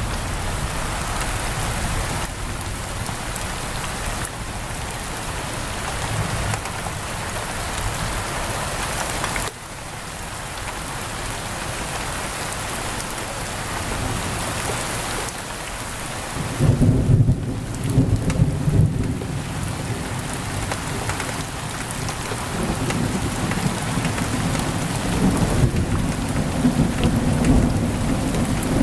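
Steady heavy rain pouring on a window, with a deep rolling thunder rumble breaking in a little past halfway and another fainter rumble near the end.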